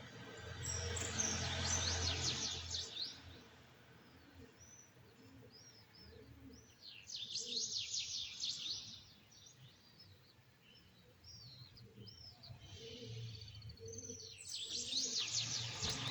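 A songbird singing in three long bursts of fast, high trills, with short scattered chirps in the gaps between them, over a faint low hum.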